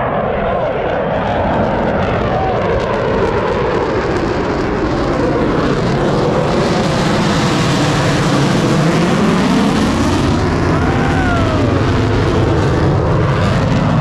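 Airshow aircraft engines passing low overhead: a loud, steady rushing roar that builds over the first half and holds, with its tone slowly sweeping as the aircraft goes over.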